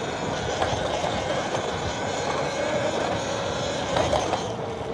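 Electric dirt bike with a Sotion motor being ridden across sand: a steady electric motor whine under rushing wind and tyre noise.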